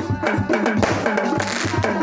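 Percussion music of hand drums beaten in a fast, busy rhythm, many strokes a second, each drum note dropping slightly in pitch as it rings, as played to accompany sholawat.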